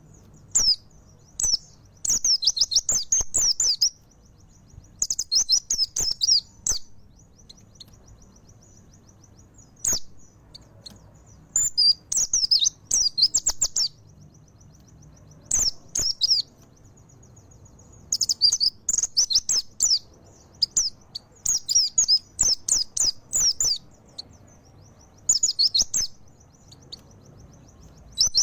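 Mountain white-eye (pleci montanus) singing in full song: rapid, high-pitched twittering phrases of one to two seconds, repeated many times with short pauses between them.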